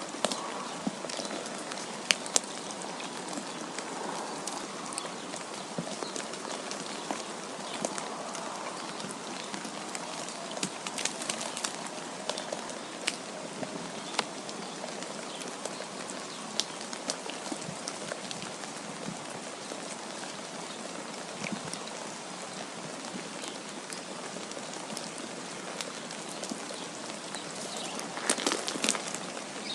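Steady hiss of falling precipitation, wet snow or rain, with scattered sharp ticks of drops or flakes hitting a surface. A short flurry of louder ticks comes near the end.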